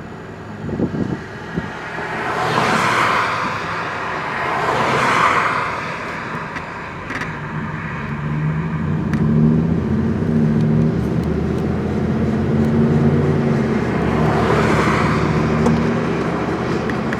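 2004 Cadillac Escalade with a swapped-in engine, driving on the road: engine hum with tyre and road noise, and a few loud rushing swells of traffic going by. The engine note steadies in the second half with small steps in pitch.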